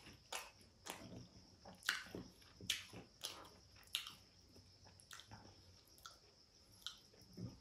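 A person chewing a mouthful of fried chicken close to the microphone: short, irregular mouth clicks, roughly one every half second.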